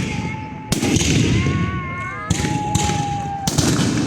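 Fireworks going off: three sharp bangs about a second or so apart over continuous crackling, with high whistling tones, some held steady and some sliding in pitch, sounding between the bangs.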